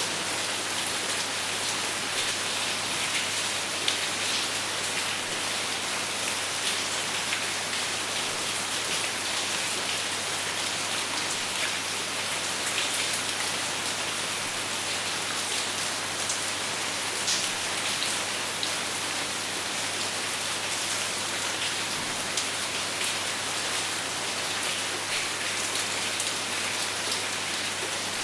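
Steady rain without thunder, an even hiss of falling rain with many individual drops ticking on a surface.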